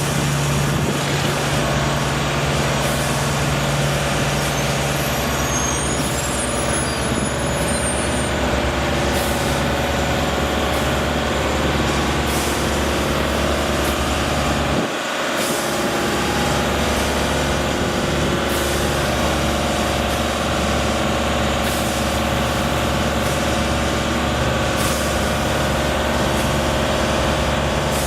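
Heavy engine running steadily, with a deep hum and a dense layer of mechanical noise; the low hum drops out for a moment about halfway through.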